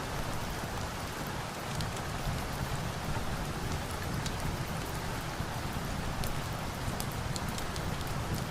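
Steady rain with a low rumble under it, mixed with scattered sharp crackles of a wood fire.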